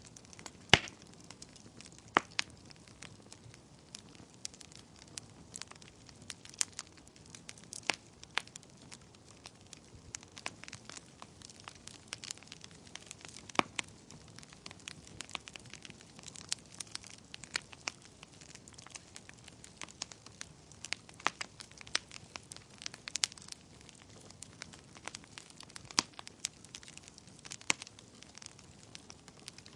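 Wood fire crackling in a fireplace: a steady soft hiss of burning with frequent irregular sharp pops and snaps, a few of them much louder than the rest.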